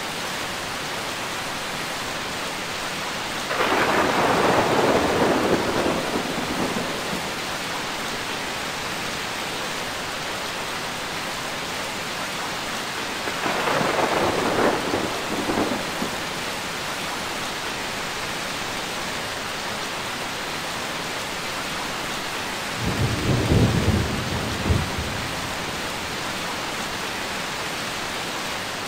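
Steady heavy rain with three rolls of thunder, about four seconds in, around the middle, and near the end, the last one lower and deeper.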